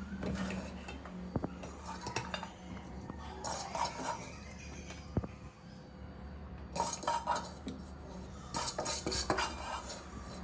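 Metal kitchen utensils clinking and scraping against pots and dishes in a few short bursts of clatter with single clicks between them, over a faint steady low hum.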